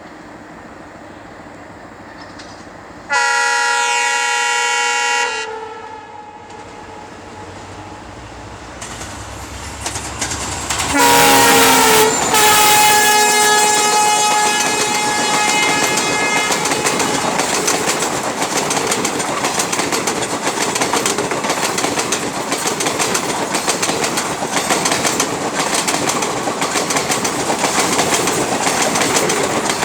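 Train horn sounding twice: a steady blast of about two seconds, three seconds in, then a second blast about ten seconds in whose pitch drops as the train passes. After it comes the loud, continuous noise of the train's coaches running past.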